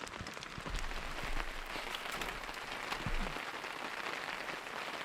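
Steady patter of rain, a dense even hiss of many small drops.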